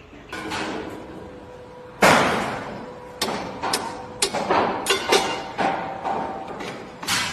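A series of loud knocks or bangs, each with a short ringing tail: one about two seconds in is the loudest, followed by about a dozen quicker, irregular strikes.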